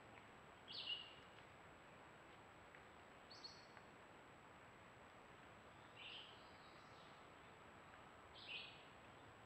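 Four short, faint bird chirps about two and a half seconds apart, each a quick falling note, over a low outdoor hiss.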